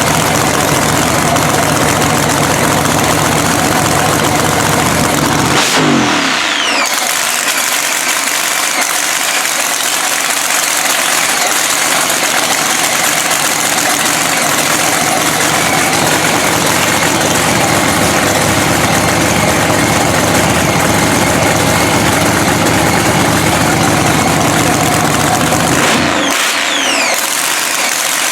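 Supercharged Hemi drag-racing engine running loudly at idle. About six seconds in, its deep low rumble drops away with a falling sweep in pitch, and near the end it comes back.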